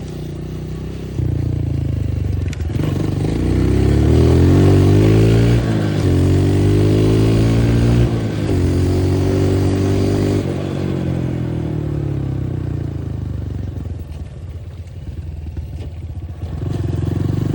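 Dirt bike engine accelerating under load, its pitch climbing and dropping back at each of two or three upshifts. It then settles lower and eases off near the end.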